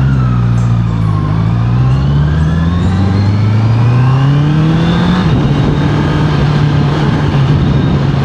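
Honda CBR650R's inline-four engine and exhaust under way: the pitch dips briefly, then climbs steadily as the bike accelerates, drops suddenly about five seconds in at a gear change, and holds steady afterwards.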